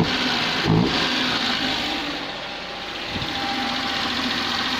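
Perodua Nippa's small three-cylinder engine idling, with a couple of short knocks in the first second. It dips slightly in level for a moment between two and three seconds in, then steadies.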